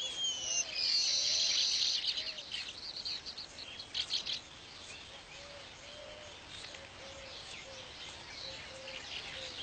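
Weaver birds chattering: many quick high chirps, a dense loud burst of them in the first couple of seconds, thinning to scattered calls after about four seconds.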